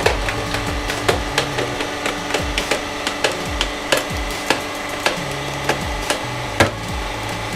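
Motorcycle helmet shell cracking and snapping as a 150-ton hydraulic press crushes it: an irregular run of sharp cracks, a few a second, over a steady hum.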